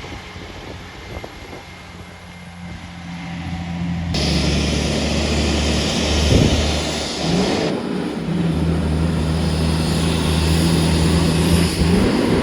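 Heavy truck's diesel engine working under load on a steep climb, a steady low drone that jumps sharply louder about four seconds in. The engine note drops briefly around two-thirds of the way through, then picks up again and rises near the end.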